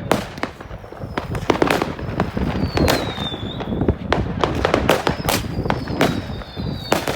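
Many fireworks going off all around: sharp bangs and crackles at irregular intervals over a constant rumble, with a high whistle falling in pitch twice.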